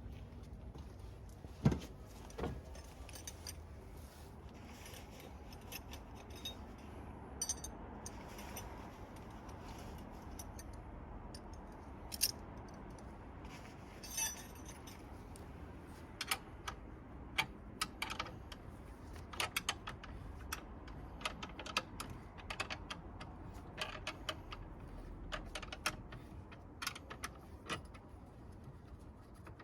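Scattered sharp metallic clicks and clinks of hand tools working on a car battery. There are two duller knocks about two seconds in, and the clicks come thicker in the second half.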